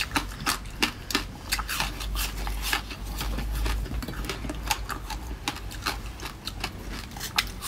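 Close-miked crunching: a crisp, seeded slice being bitten and chewed, giving a rapid, irregular run of sharp cracks and crackles.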